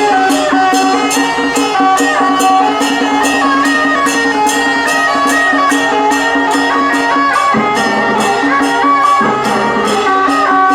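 Traditional temple procession band music: a loud, stepping reed-instrument melody over a held low note, with steady bright percussion strikes about three times a second.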